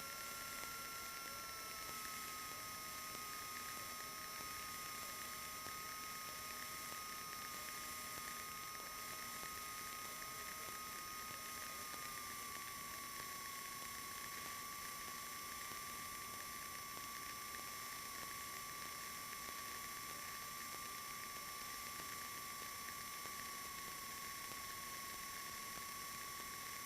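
Cessna 150's Continental O-200 engine idling, heard faintly as a steady hum with a high whine that steps slightly lower twice.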